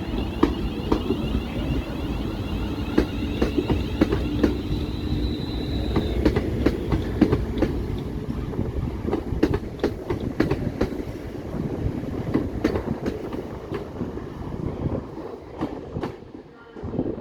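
A Class 350 electric multiple unit pulling out and running past, its wheels clattering over rail joints and points in many sharp clicks. A high whine sounds for about the first six seconds, and the sound eases off near the end.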